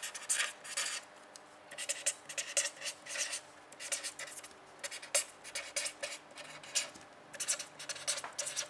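Handwriting with a pen: a run of short scratchy strokes in clusters, with brief pauses between words.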